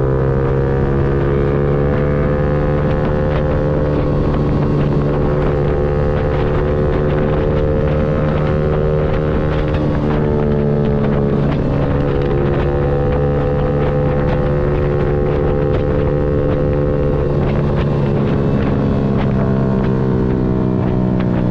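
Yamaha MT-125's single-cylinder four-stroke engine running under way at fairly steady revs, its note dipping about ten seconds in and again near seventeen seconds. Wind buffets the microphone throughout.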